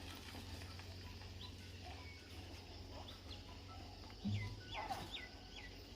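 Small birds chirping: short, quick downward-sweeping calls, mostly in the second half, over a faint steady low hum. A brief low sound about four seconds in is the loudest moment.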